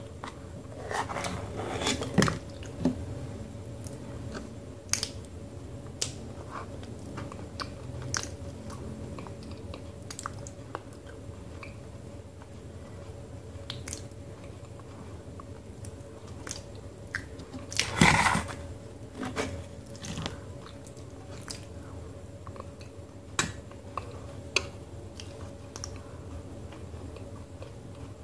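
Close-up wet chewing and mouth sounds from eating a thick, crumb-free multani mitti (Fuller's earth clay) paste, with scattered sharp clicks. There is one louder, fuller burst about two-thirds of the way through, over a steady low hum.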